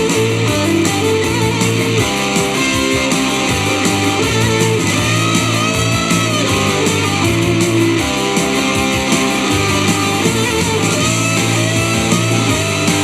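Rock and roll band playing an instrumental break, with electric guitar to the fore and bending guitar notes over a steady backing.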